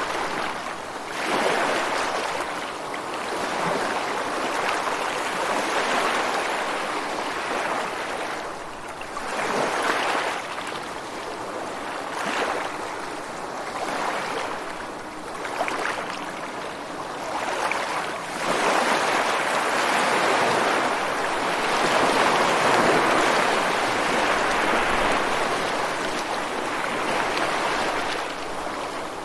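Ocean surf breaking on a rocky shore, a continuous wash of water that swells and eases every few seconds, staying louder for the last third.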